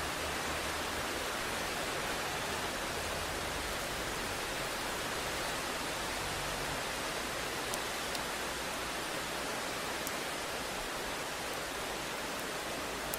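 Steady, even hiss of heavy rain, with a few faint ticks of single drops.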